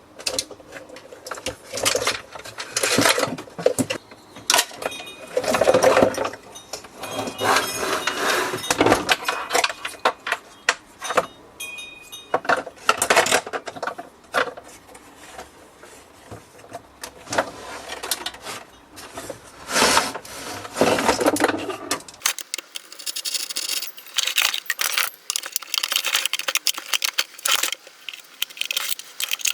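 Irregular clicks, knocks and clatter of the coffee machine's plastic and metal parts being handled and taken apart. After about 22 seconds the sound turns thinner, to lighter, higher clicking and rustling.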